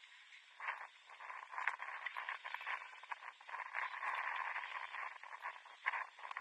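Pitch-side sound of a 7-a-side football match: indistinct, muffled player shouts and calls, with a sharp knock about two seconds in and another near the end.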